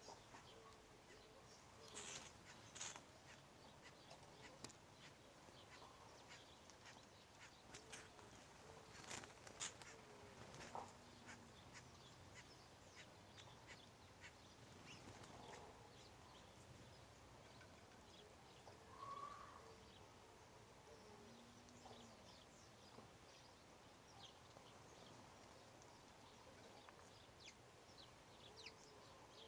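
Faint, scattered bird calls, short and repeated, with occasional light clicks over a quiet background.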